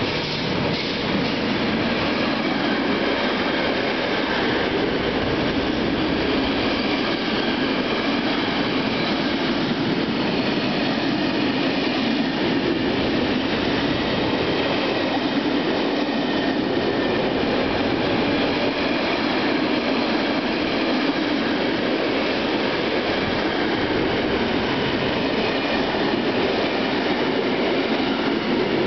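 Freight train of intermodal container and tank-container wagons rolling past at speed behind an electric locomotive: a steady rush and rumble of wheels on rail, even in level, with thin high steady tones above it.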